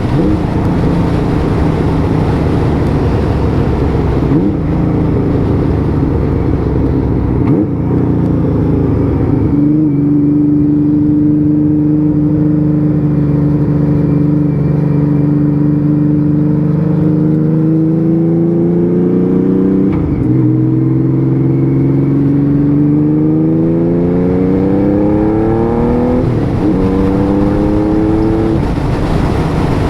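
Honda Valkyrie 1500's flat-six engine and exhaust running on the road, its engine freshly rebuilt after a hydrolock. It holds a steady note, then the pitch rises as it accelerates and drops back with a gear change about two-thirds of the way in, rising and dropping once more near the end.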